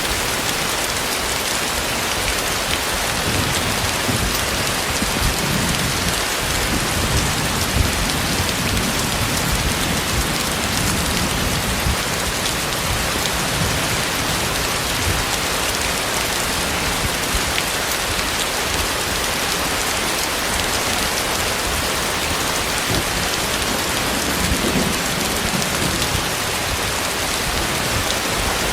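Heavy rain falling steadily, with low rumbles of thunder through the first half and again near the end.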